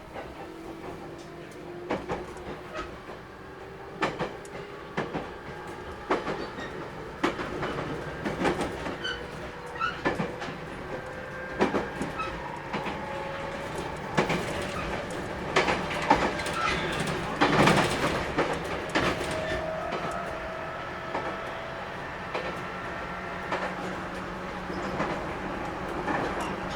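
811 series electric train running, its traction motors whining in tones that rise slowly as it gathers speed and then level off, with the wheels clicking over rail joints at a steady beat.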